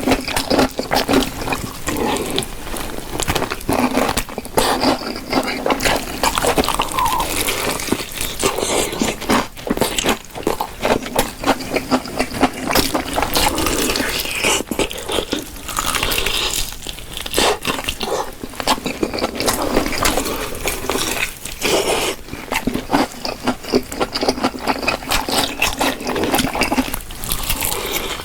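Close-miked eating of crispy fried chicken: dense, irregular crunching and crackling bites and chewing, with wet mouth sounds.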